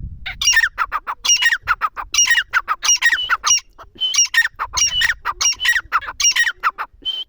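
Teetar (grey francolin) calling loudly: a rapid run of harsh, repeated notes that slide downward, in two bursts with a short pause between them.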